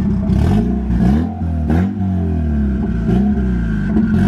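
Turbocharged 1994 Honda Civic hatchback's engine revved repeatedly, about four times, its pitch rising and falling with each blip of the throttle. A few short sharp noises come between the revs.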